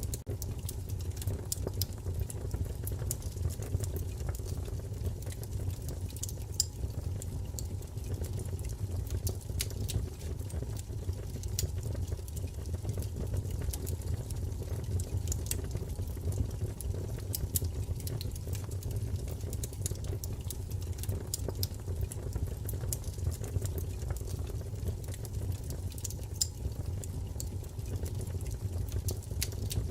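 Wood fire crackling: many small sharp pops and snaps scattered irregularly over a steady low rumble of burning.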